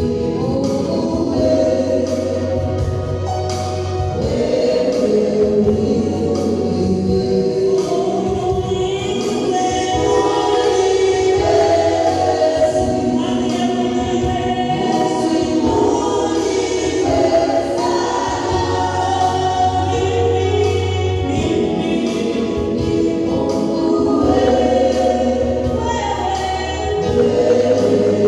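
Choir and congregation singing a gospel song with a steady beat and bass accompaniment.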